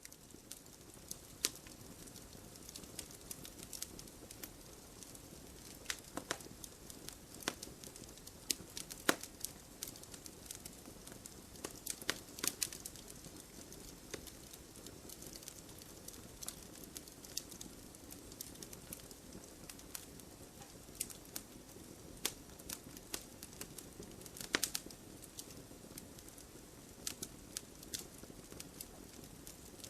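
Wood fire burning: firewood crackling and popping at irregular intervals over a low steady hiss of flames, with a few louder snaps among the small ticks.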